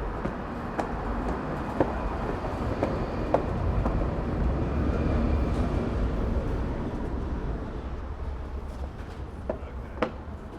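Low rumble of a passing vehicle, swelling towards the middle and fading, with scattered footsteps on stairs.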